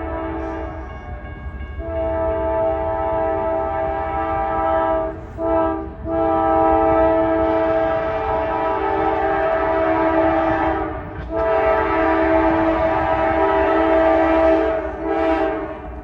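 Norfolk Southern diesel locomotive's K5LA five-chime air horn sounding a series of long blasts, with short breaks about one, five and eleven seconds in, over the low rumble of the locomotive and train.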